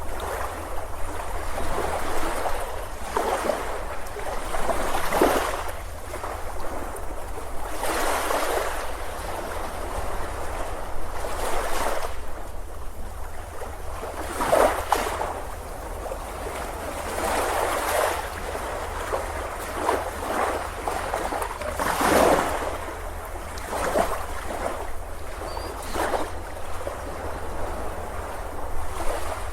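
Ocean surf breaking and washing up a beach, a new surge of rushing water swelling and falling back every few seconds over a steady low rumble.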